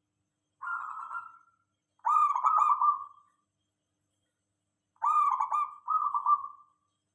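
Zebra dove (perkutut) cooing in four short phrases of quick rolling coos. The last two phrases come back to back near the end.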